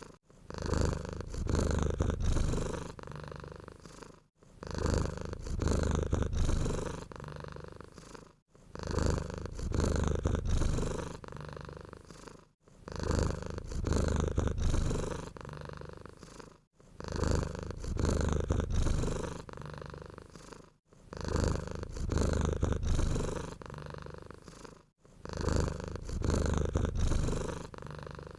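Domestic cat purring close up, a steady low rumble that swells and fades in even cycles of about four seconds, louder on one breath and softer on the next.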